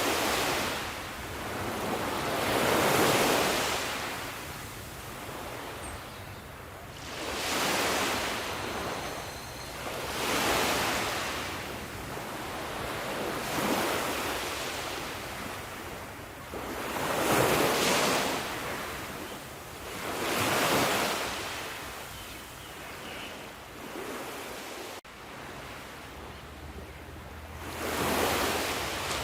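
Sea waves rolling in one after another, the wash of surf swelling and falling away every three or four seconds.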